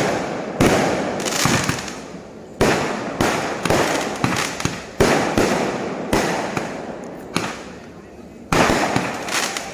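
Fireworks going off: a loud bang every two to three seconds, each trailing off over a second or two, with smaller pops in between.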